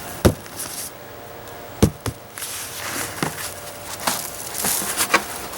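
Digging by hand through loose soil in a tub of sweet potatoes: two sharp knocks about a second and a half apart, then scraping and rustling of the soil.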